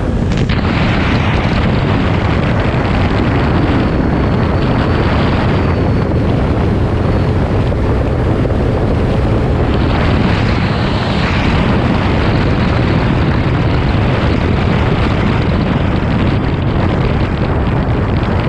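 Car engine running at speed, heavily overlaid by wind buffeting on the microphone; a loud, steady rush with no clear breaks.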